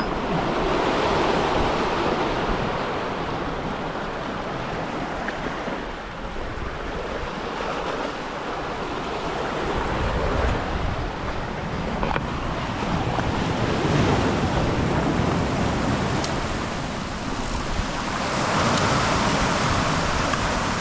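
Ocean surf washing in, swelling and easing every few seconds, with wind on the microphone.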